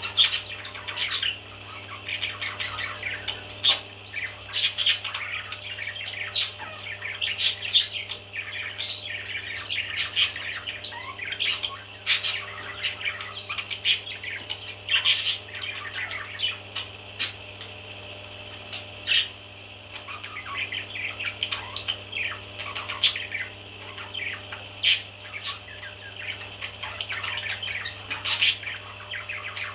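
Baby parrots calling without pause: a dense run of short, high chirping calls, with louder sharp calls scattered through it. A steady low hum runs underneath.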